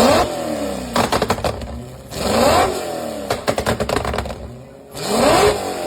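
Car engine revved three times, each rev climbing in pitch and then dropping back. Between the revs come quick runs of sharp crackles from the exhaust.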